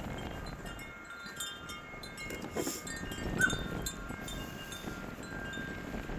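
Wind chimes ringing irregularly in gusty wind, scattered clear tones over wind rumbling on the microphone.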